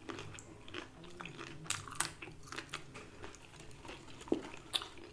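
A person chewing a crispy fried chicken tender close to the microphone: soft crunches and wet mouth clicks scattered through, a few louder than the rest.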